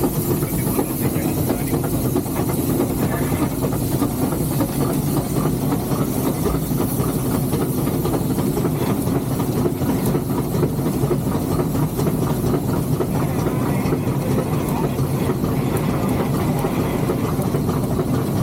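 Three-truck Shay geared steam locomotive standing at rest: a steady low rumble with a light hiss of steam in the cab.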